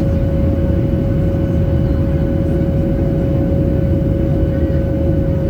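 Jet airliner cabin noise in the climb: a loud, steady rumble of engines and airflow with a whine held at one pitch.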